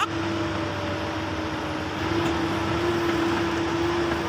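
Heavy earthmoving machine's diesel engine running steadily, with a constant whine over the engine noise.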